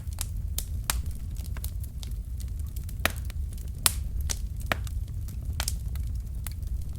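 Wood fire burning in a fireplace: irregular sharp crackles and pops from the logs over a steady low rumble of the flames, with two louder pops about three and four seconds in.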